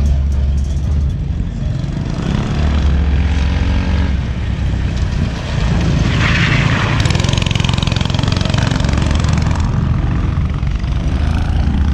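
Small single-cylinder CycleKart engines of about 200cc running steadily, swelling about halfway through.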